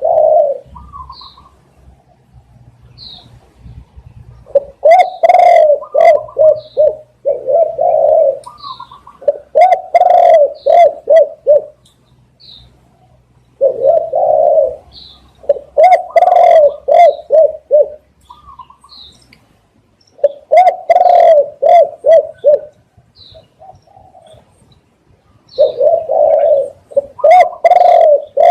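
Spotted dove cooing: five loud bouts of several low, quick coo notes, each bout a few seconds long with short pauses between. Short faint high chirps from another small bird come about every second and a half between the bouts.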